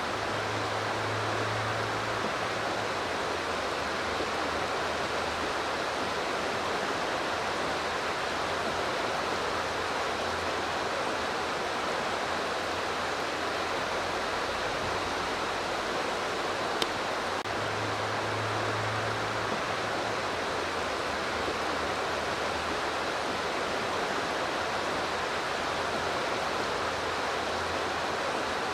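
Steady rushing of flowing river water, an even hiss-like noise that does not change, with a single sharp click about seventeen seconds in.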